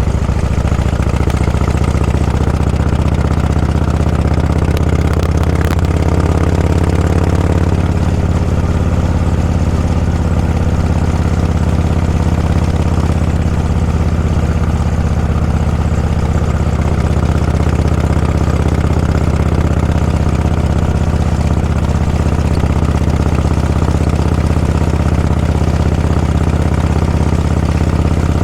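A vehicle engine running steadily at low revs, an even low hum with no change in pitch; a faint higher engine note briefly joins about five seconds in.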